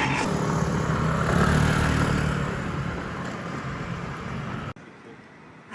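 Street traffic noise with a motor vehicle's engine rumble rising and passing, cut off abruptly about three-quarters of the way through, after which it is much quieter.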